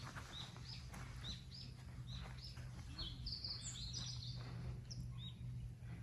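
Birds chirping: a quick run of short, high chirps about three a second, with a few higher notes in the middle, over a faint low steady hum.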